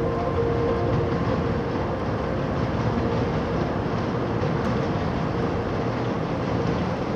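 Oigawa Railway train running on the rails: a steady rumble and hiss with no marked beats, and a faint steady tone that fades out about a second in.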